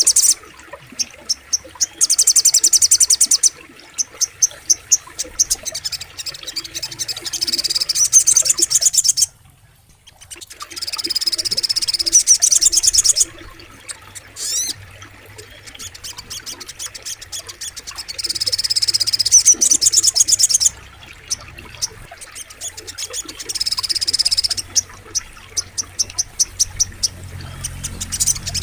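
Little spiderhunter (sogok ontong) calling in repeated bouts of a second or two of very rapid, high, sharp notes, with scattered chirps between bouts over a faint background of insects and frogs. A brief dropout to near silence comes about nine seconds in.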